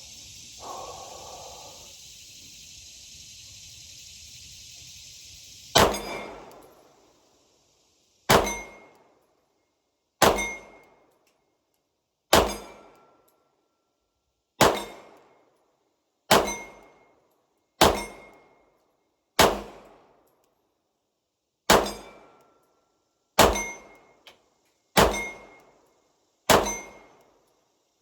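Twelve gunshots at a slow, steady pace, starting about six seconds in, each followed by the clang of a steel target plate ringing out. The shots are fired while sighting in a newly adjusted red dot sight.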